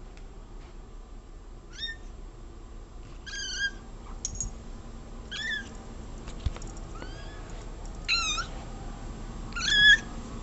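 A cat meowing over and over: about six short, high-pitched meows a second or two apart, the last one near the end the loudest.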